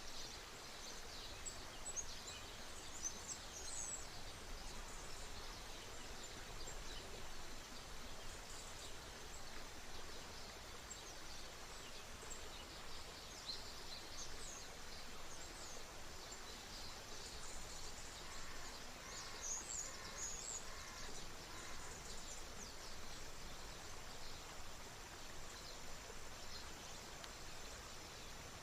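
Birds chirping and calling over the steady rush of a river. A run of evenly spaced lower notes comes near the middle.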